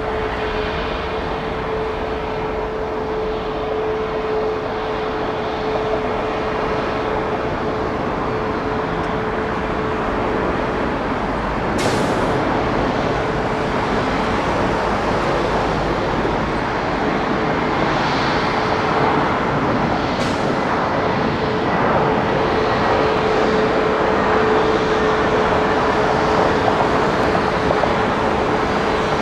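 Jet airliner engines running: a steady roar that slowly grows louder, carrying a constant whine. Two short sharp clicks come through, about twelve and twenty seconds in.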